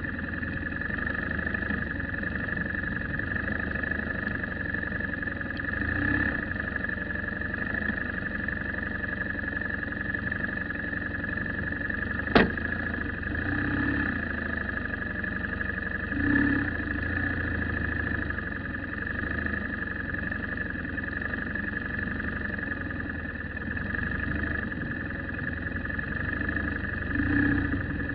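Car engine running steadily with road noise and a steady high whine over it, and a single sharp click about twelve seconds in.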